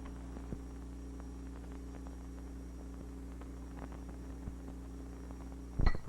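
Steady hum with faint crackle from an old film soundtrack, then near the end a single sharp metallic strike with a short ring: the silver mallet hitting the final golden spike.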